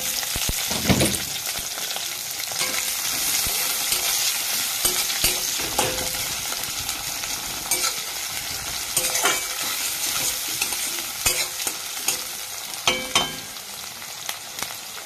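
Sliced onions and green chillies sizzling in hot oil in a wok, a steady frying hiss, with a spatula scraping and knocking against the pan every few seconds as they are stirred.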